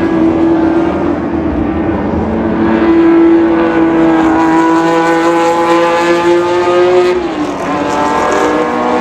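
Historic race car engines running hard at high revs, the pitch held and slowly climbing, with a sudden drop about seven seconds in, like a gear change, before it climbs again.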